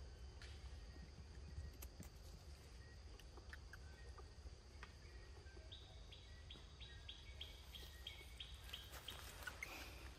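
Faint bird call: a quick run of repeated short high notes, about three a second, starting around the middle and lasting a few seconds, over a steady high insect drone and a low rumble, with a few soft clicks.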